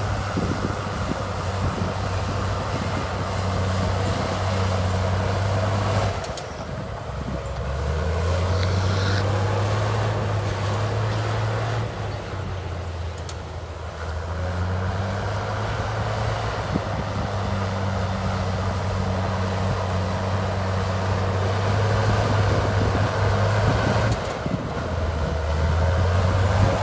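Heavy diesel engine of earthmoving machinery running under load, a low steady drone that shifts pitch a few times.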